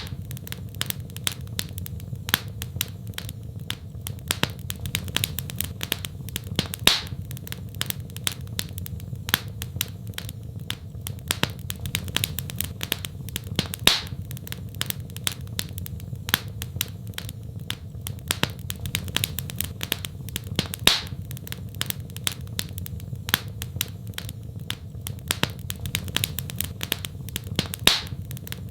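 Wood fire in a fireplace crackling: dense small snaps over a low steady rumble, with a louder pop about every seven seconds.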